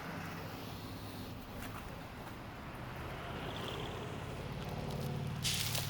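A low engine-like hum that slowly grows louder over the second half, with a short hiss just before the end.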